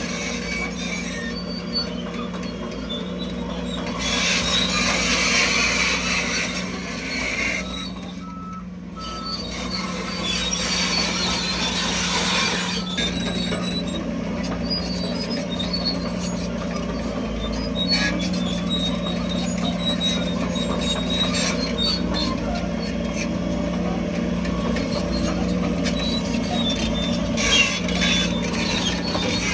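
Heavy diesel earthmoving machinery at work: a bulldozer's engine running with a steady drone, overlaid by a hiss of grinding and scraping noise that swells several times.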